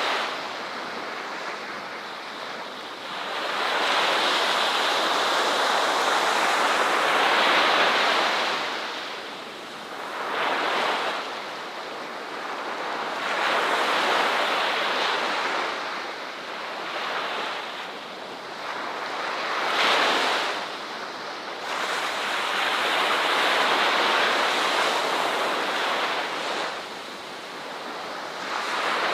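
Ocean waves breaking on a shore, the surf swelling and falling back in repeated surges every few seconds.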